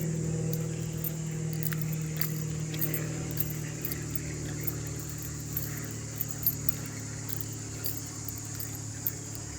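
Steady low engine hum of a distant vehicle, slowly fading, over a continuous high insect drone, with a few faint clicks.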